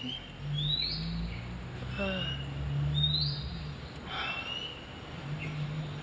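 Small bird chirping: short rising chirps, about one every second, over a steady low hum.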